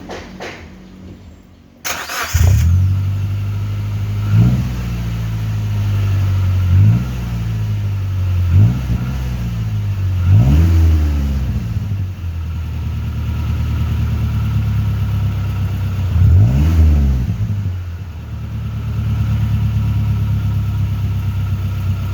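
Fuel-injected engine breathing through an aftermarket 'Futura' exhaust with a deep bass note, starting up about two seconds in and then idling. It is blipped briefly about five times, the pitch rising and falling each time, and settles to a steady idle near the end.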